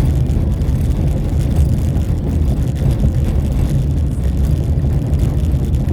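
A vehicle travelling along a road: a steady, loud low rumble of engine and road noise.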